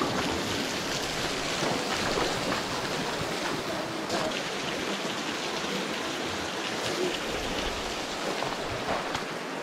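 Creek water rushing over rocks: a steady, even hiss.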